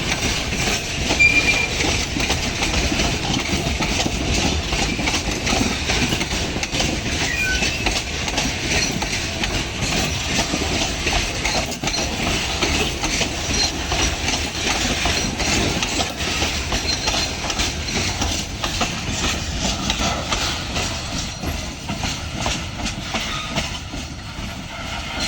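Loaded ore freight train's wagons rolling past, wheels clattering steadily over the rails, getting a little quieter near the end.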